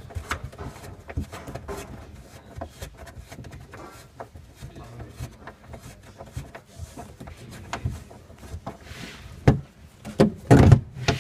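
Kayak footrest being loosened and slid along its metal rail: small clicks and rattles throughout, with a few louder knocks near the end.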